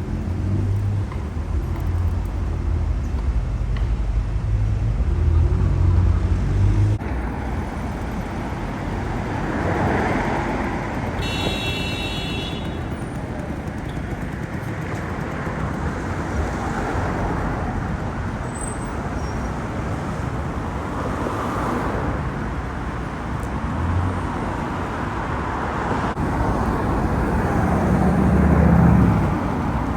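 Street traffic: cars driving past one after another, with a deep engine rumble for the first seven seconds that cuts off, then several swells as vehicles pass. A brief high-pitched squeal about eleven seconds in.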